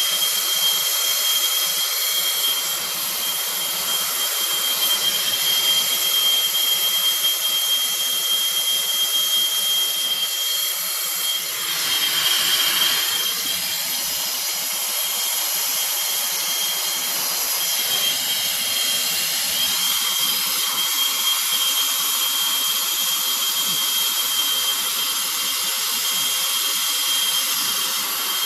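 Plumber's gas soldering torch burning with a steady hiss and a thin high whistle, heating copper 90° elbow joints to sweat-solder them. The hiss swells briefly about twelve seconds in.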